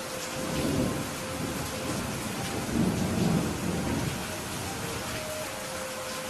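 Steady rain falling, with low rolls of thunder swelling up twice, about a second in and again around three seconds in.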